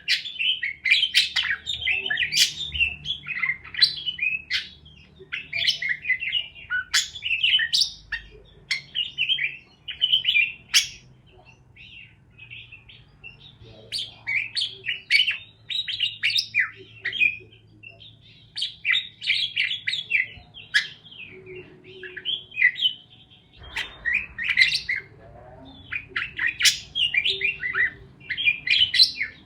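Parakeets chirping in rapid, dense bursts of high chirps, with a couple of short lulls.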